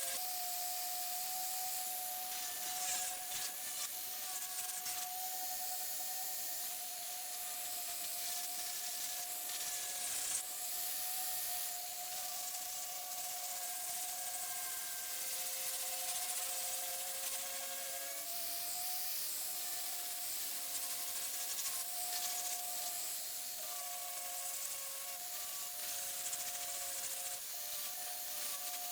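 Power grinder running steadily as it grinds away cracked fiberglass, its motor whine shifting slightly in pitch as the load changes, over a continuous gritty hiss from the abrasive.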